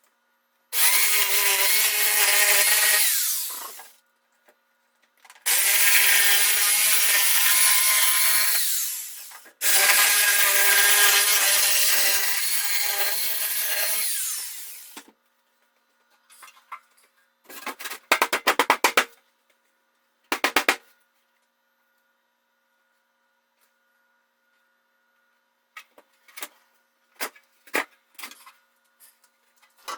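Power saw cutting wood in three runs of a few seconds each, then a short rattling burst and a few scattered knocks near the end.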